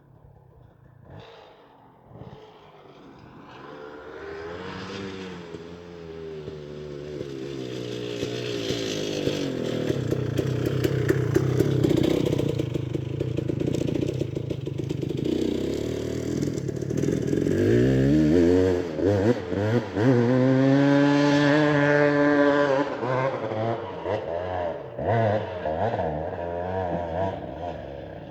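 Off-road motorcycle engine revving hard on a steep hill climb. It grows louder, surges up and down in revs about two-thirds of the way through, then fades out near the end.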